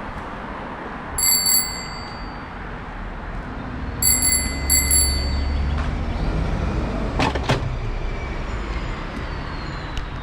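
A bicycle bell rung twice in quick succession, then twice more about three seconds later, each ring bright and briefly ringing on. A low rumble follows, then two sharp knocks, over steady outdoor background noise.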